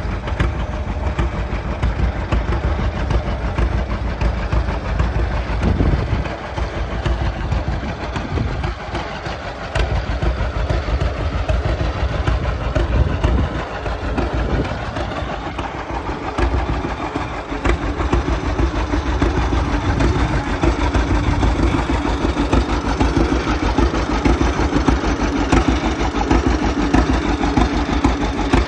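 Antique farm tractor engine running under load while pulling a moldboard plow, with a rapid, even firing beat that dips a few times and then holds steady.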